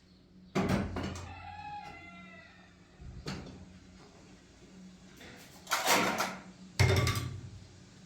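A few sharp knocks and bangs, the loudest two close together near the end. Just after the first bang comes a short, wavering, pitched sound lasting about a second.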